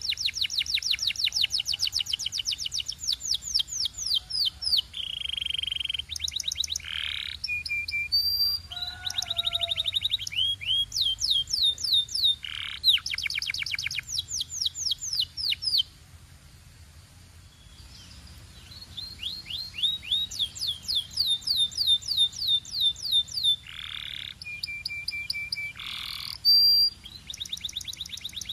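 A canary singing: fast trills of rapidly repeated high notes, each series switching to a new pitch and speed, with some held whistled notes between them. The song eases to a quieter stretch about halfway through, then picks up again.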